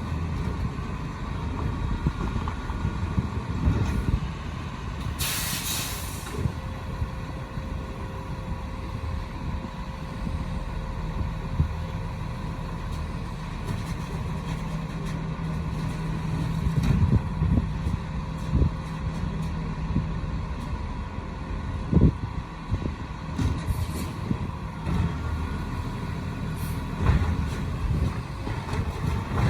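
Peterbilt 520 garbage truck running, with a loud air-brake hiss about five seconds in. Later the engine holds a steady low hum for a few seconds, and a sharp knock comes a little after.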